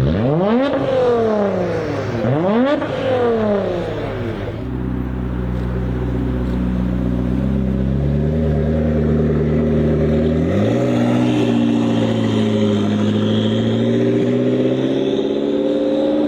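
A performance car engine revved hard twice, the pitch shooting up and falling back each time. Then a steady engine note that climbs in two steps.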